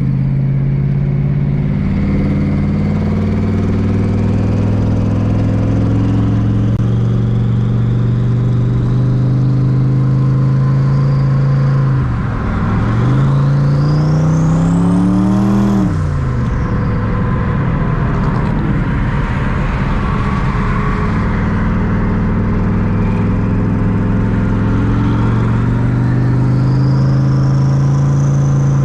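Twin-turbo Terminator Cobra's 4.6-litre DOHC V8 running steadily under way. About twelve seconds in it revs up hard for a few seconds, with a high whistle rising alongside, then drops back quickly to a steady drone. A shorter rising whine comes near the end.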